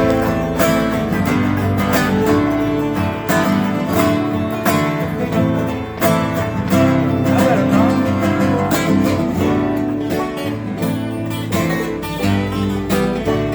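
Acoustic country jam band playing an instrumental passage without singing, led by strummed and picked acoustic guitar.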